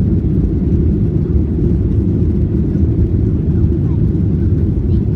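Steady low rumble of an airliner's cabin noise, heard from inside the cabin.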